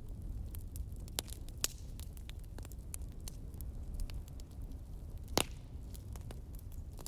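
Wood fire crackling with frequent small snaps and one louder pop about five seconds in, over a steady low rumble of wind.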